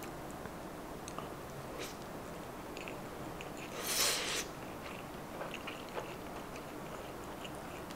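Close-miked chewing of a baked salmon roll: soft wet mouth clicks as it is eaten, with a short hiss about four seconds in.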